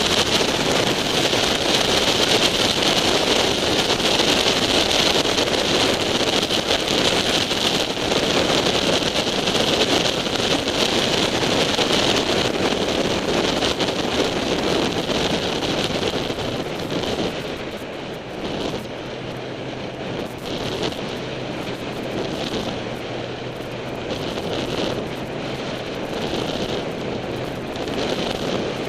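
Wind buffeting the microphone of a camera mounted on a sportbike riding at speed, with the engine running underneath. About two-thirds of the way through, the wind noise eases and a steady low engine hum comes through.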